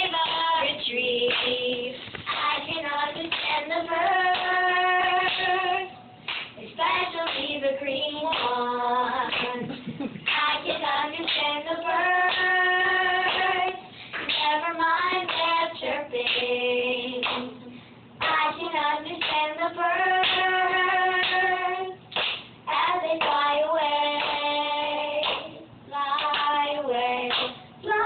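Young girls singing a song, in phrases of long held notes with short breaks between them.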